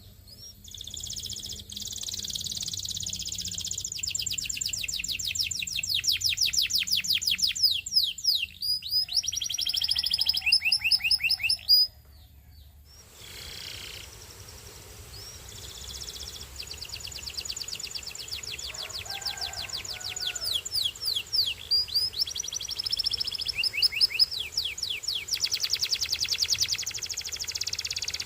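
Canary singing: long, high-pitched phrases of fast repeated trill notes and rolls, changing from one trill type to the next, with a short pause about twelve seconds in before the song resumes.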